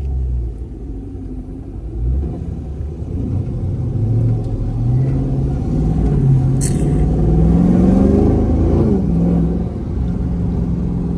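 2022 Dodge Scat Pack Widebody's 6.4-litre HEMI V8 accelerating from inside the car: the engine note climbs steadily for about five seconds, then drops as the revs fall. A brief sharp tap sounds about halfway through.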